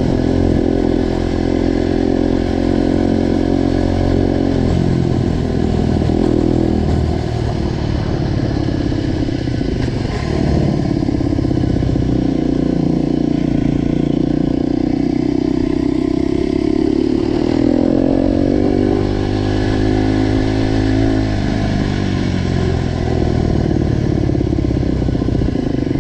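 Motorcycle engine running through a newly fitted GPR aftermarket exhaust. The engine note holds steady for long stretches, falls away about five to seven seconds in, and climbs again past the middle before dropping off.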